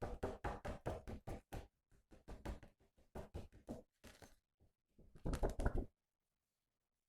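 A quick run of light knocks and taps, about five or six a second, from hands handling toys and their packaging, with a denser flurry about five seconds in before it stops.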